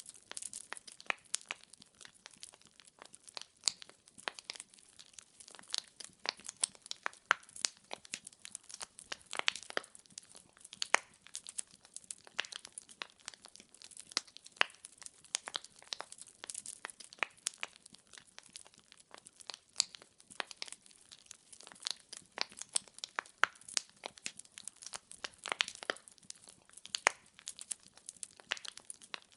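Wood fire burning, with dense, irregular crackling and popping from the burning logs over a faint hiss.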